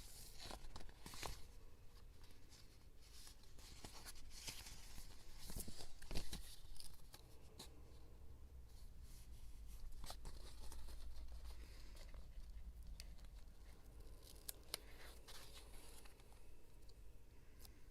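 Paper-crafting sounds: paper being handled and torn, with soft rustles and scattered light taps and clicks. The loudest rustle comes about six seconds in.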